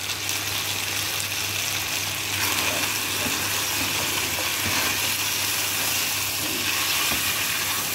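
Chicken pieces with freshly added garlic and ginger sizzling steadily in hot oil in a pot, stirred with a metal spatula: the bhuna frying stage of a curry.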